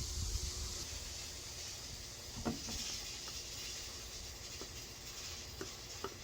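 Steady low hiss with a few light, soft clicks or taps, the clearest about two and a half seconds in.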